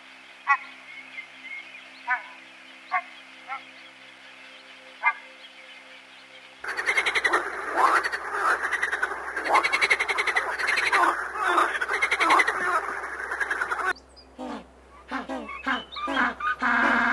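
Animal calls: a few short separate calls over the first six seconds, then a dense chorus of many overlapping calls that starts suddenly and runs about seven seconds, then scattered calls again near the end.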